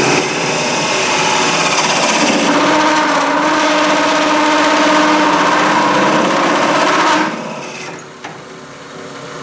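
A 1.5-inch Forstner bit boring into a curly maple blank spinning on a lathe at about 1,000 RPM, a loud cutting noise with a whine that rises about two seconds in, stopping abruptly about seven seconds in. The bit chattered a little during this cut, which the turner says made the hole too big.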